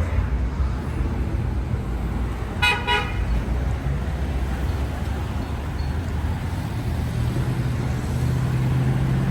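Street traffic rumbling steadily, with one short car-horn toot about two and a half seconds in. A vehicle's engine hum grows louder near the end.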